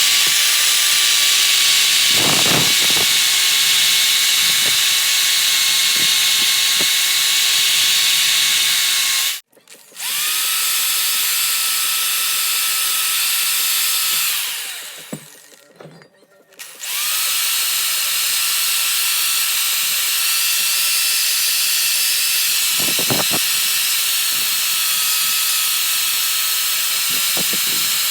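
A handheld power tool running steadily with a high whine. It cuts out about nine seconds in and restarts at once, then winds down around fourteen seconds and starts up again a couple of seconds later.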